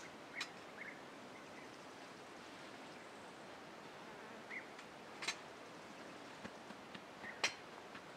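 Quiet outdoor ambience: a steady soft hiss with a few faint, short bird chirps, and three sharp clicks or snaps, the loudest near the end.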